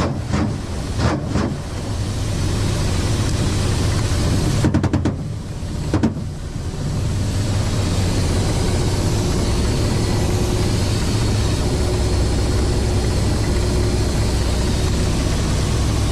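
A motor vehicle running with a steady low rumble and noise, with a rapid string of sharp clicks about five seconds in and another near six seconds.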